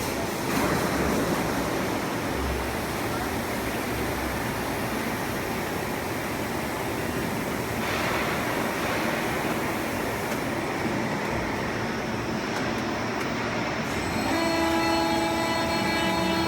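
1600-ton plastic-pallet injection moulding machine running, with a steady mechanical noise. A hissing surge comes about half a second in and another about eight seconds in. Near the end a steady pitched tone with overtones sets in.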